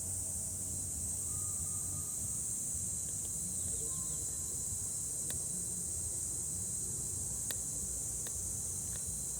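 Steady chorus of insects, a continuous high even buzz, over a low rumble of outdoor ambience, with a few faint clicks.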